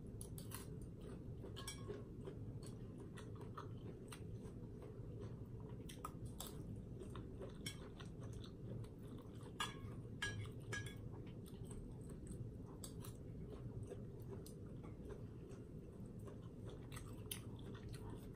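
A person chewing a mouthful of fish meatball and instant noodles: faint, scattered wet mouth clicks over a low steady room hum, with a few sharper clicks about ten seconds in.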